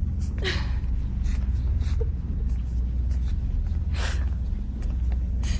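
Steady low hum of room tone with a few short, soft noises, the clearest about four seconds in.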